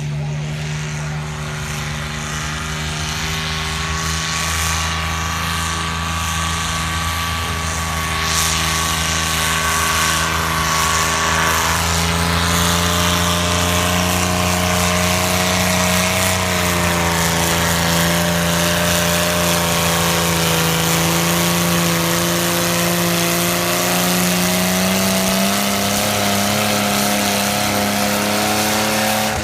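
Tractor engine running hard under full load while pulling a sled, a steady drone whose pitch creeps slowly upward over the pull. A thin whine sits above it for the first half.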